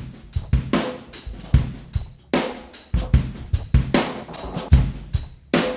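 Recorded pop drum kit playing back a steady groove of kick, snare, hi-hat and cymbal hits, with the tape-emulation plug-in on the drum group bypassed for comparison.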